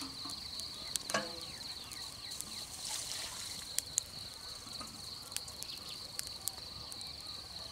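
Steady high-pitched insect trill in the open countryside, with a few short chirps and light clicks scattered over it.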